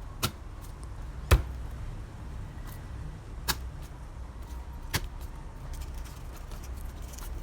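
Crushed garlic cloves being handled and peeled on a cutting board: a few separate sharp knocks a second or more apart, the loudest about a second and a half in, over a low steady rumble.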